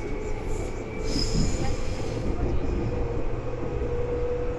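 Seibu 2000 series electric train running, heard from inside the car: a steady low rumble from the wheels and running gear. About a second in there is a brief high squeal. From about halfway a steady hum grows louder and edges slightly up in pitch.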